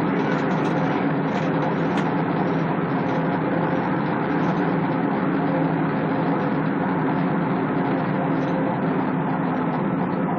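Steady vehicle noise: an engine running with road rumble, holding an even level with a constant low hum.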